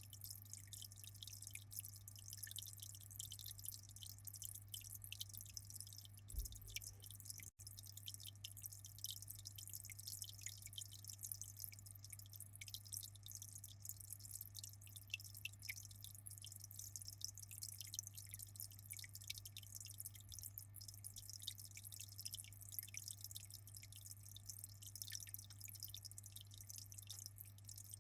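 Aquarium water trickling and bubbling as a continuous faint fizz of tiny drips, over a steady low hum.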